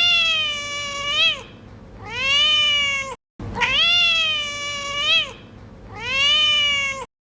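Kitten meowing: four high meows in two matching pairs, the second pair repeating the first after a brief cut-out. Each meow rises, holds, then dips with a little upturn at the end.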